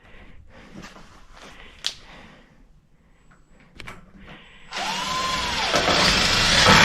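Power drill running in one loud burst of about two and a half seconds, starting near the end, its motor pitch rising and then falling as it begins. Before it there are a few light scrapes and knocks of handling.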